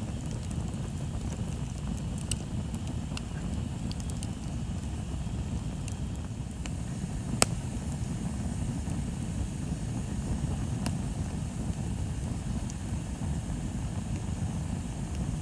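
Bonfire burning: a steady low rumble with scattered wood crackles and one sharp pop about seven seconds in.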